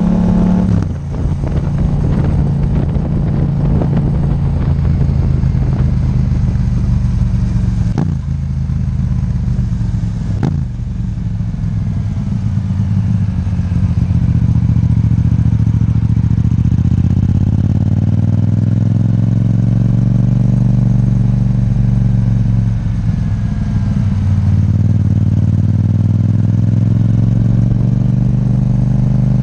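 Yamaha MT-07 parallel-twin engine through an Akrapovic titanium exhaust, ridden hard, its note rising and falling with the revs. There are a few sharp breaks in the note.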